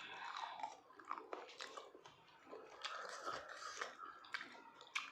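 A person chewing and biting into cooked meat, with several short crunchy clicks.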